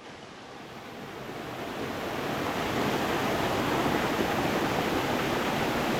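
Stream water running over stones in a steady, continuous rush, fading in over the first few seconds.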